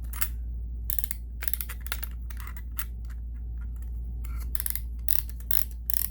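Irregular clicking and light rattling of a buttonhole template being worked into a sewing machine buttonholer attachment by hand, over a steady low hum.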